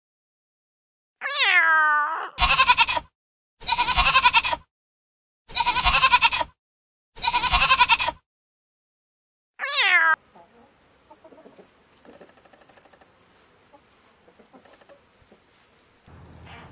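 A series of animal calls: a falling cry, then four pulsing, bleat-like calls about a second long and about a second apart, then another falling cry. After that only faint low noise remains.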